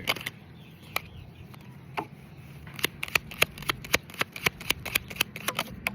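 Tarot cards being shuffled and handled: a run of sharp, irregular card clicks, sparse at first and quickening to about four or five a second in the second half, over a low steady rumble.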